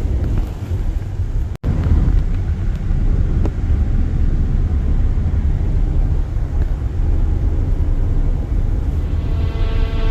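Road noise and engine rumble inside a moving vehicle's cabin, a steady low drone that cuts out for an instant about a second and a half in. Music starts to fade in near the end.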